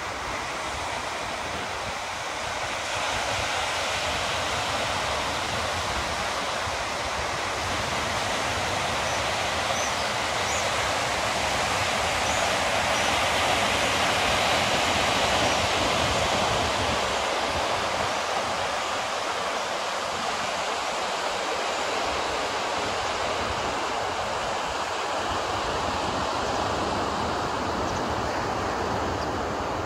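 Steady rushing noise of the sea, slowly swelling and easing with no distinct strokes or breaks.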